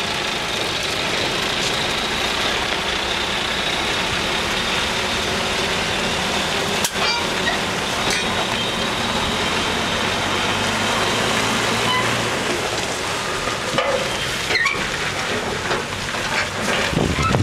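Train running past: a steady rolling rumble with a few sharp clanks, a low hum that stops about two-thirds of the way through.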